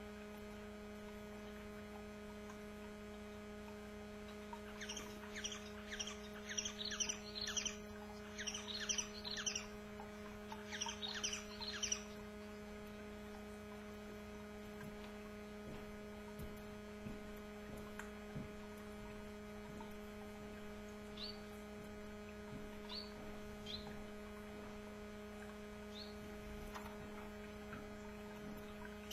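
Canaries chirping: a quick, busy run of short, falling chirps for several seconds, then a few scattered single chirps near the end, over a steady electrical hum.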